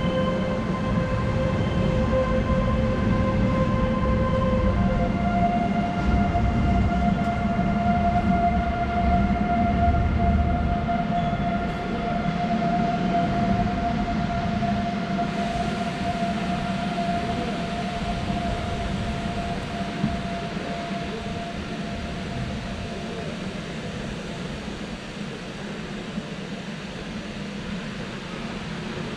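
Renfe Arco passenger train pulling out of the station. The coaches roll past with a low rumble and a steady whine that steps up in pitch about five seconds in. Both fade gradually as the train moves away.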